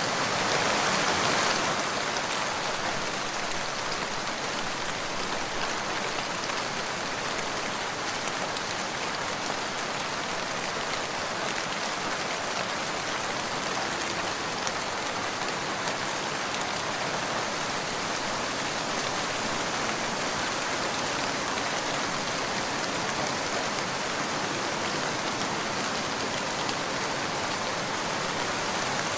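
Steady rain falling, an even hiss with no break, a little louder in the first second or two.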